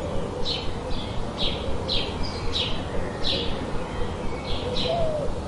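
A bird giving short, high, downward-sweeping chirps over and over, about one or two a second, over a steady hiss of white noise.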